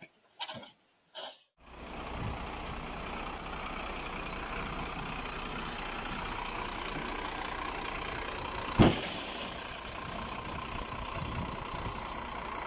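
Steady engine and road noise from a moving vehicle, starting about a second and a half in, with a single sharp bang about nine seconds in.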